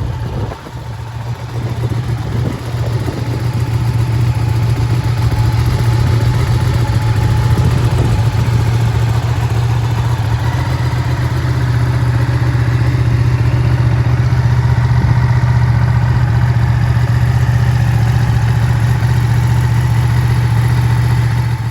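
Ducati 959 Panigale's Superquadro 90-degree V-twin idling steadily. The engine is quieter and uneven for the first few seconds, then steady and loud.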